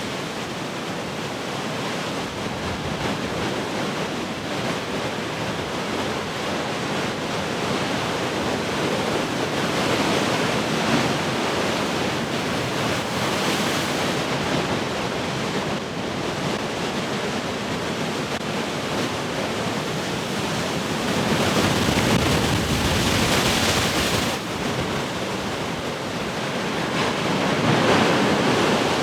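Heavy ocean surf, large waves breaking and washing on the shore in a continuous roar-like hiss that swells louder several times, most strongly about three-quarters of the way through and again near the end, with some wind on the microphone.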